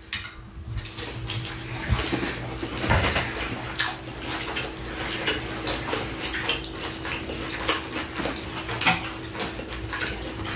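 Close-miked chewing of a birria taco: wet mouth sounds with many small crunches and smacks. A faint steady hum runs underneath.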